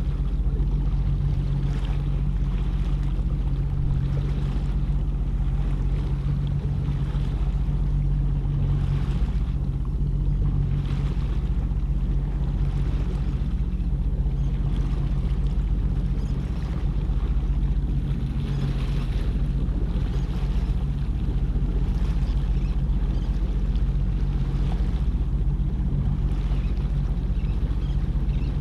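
Jet ski engine running steadily with a constant low hum, with wind and water rushing over it that swells every second or two.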